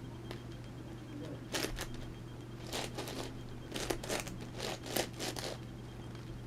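Plastic layers of an MoFang JiaoShi Meilong 11x11x11 cube being turned by hand: several short clicking rattles a second or so apart, over a steady low hum.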